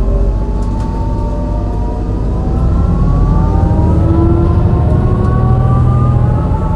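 MAN NL202 CNG bus pulling uphill: its misfiring gas engine gives a rough, choppy rumble under the whine of the ZF Ecomat automatic gearbox, which rises slowly and steadily in pitch as the bus gains speed. The sound grows louder a few seconds in.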